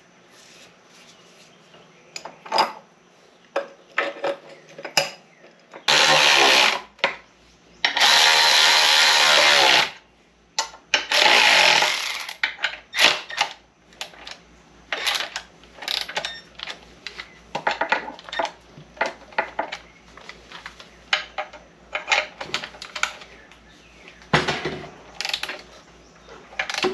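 A power tool runs in three bursts of one to two seconds each, driving the bolt of an improvised puller that is working a bearing off a transmission shaft. Short metallic clicks and knocks follow through the rest of the stretch.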